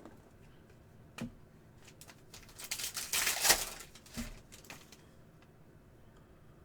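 Trading cards and packs being handled on a table: a few light clicks and taps, with a longer stretch of sliding, scraping noise about two to four seconds in.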